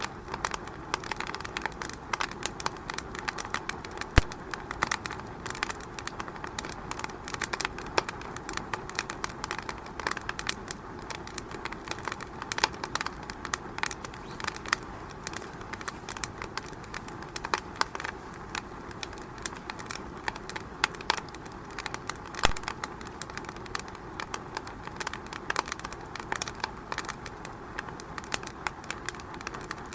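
Fire crackling in a fireplace: irregular sharp pops and snaps over a steady hiss, with louder pops about four seconds in and again about twenty-two seconds in.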